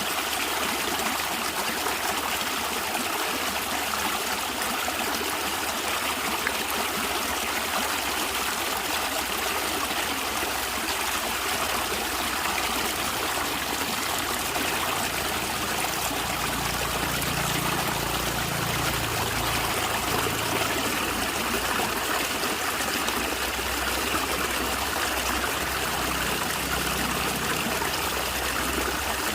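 A natural stream trickling and gurgling steadily, with a low rumble coming and going twice in the second half.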